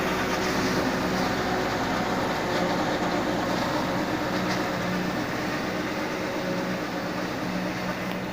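Tractor engine driving a mounted Napier grass harvester, running steadily with a continuous machinery drone.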